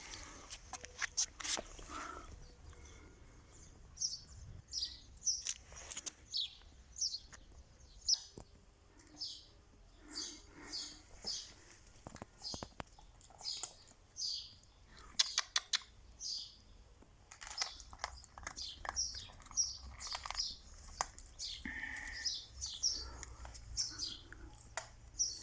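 Small birds chirping: many short, high, falling chirps, one or two a second, with a few sharp clicks among them.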